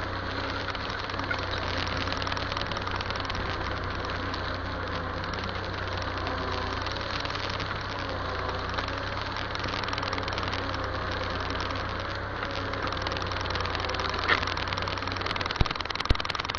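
Massey Ferguson tractor's diesel engine running steadily, with a few sharp knocks near the end.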